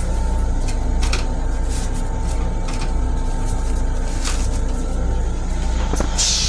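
Running noise of an LIRR M7 electric railcar heard inside its small restroom: a steady low rumble with a constant hum, scattered clicks and rattles, and a short burst of hiss near the end.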